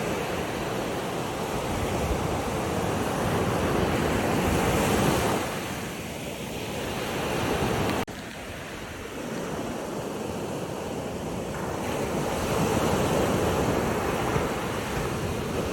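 Ocean surf washing in and pulling back, a steady rushing that swells and eases, with an abrupt drop about eight seconds in.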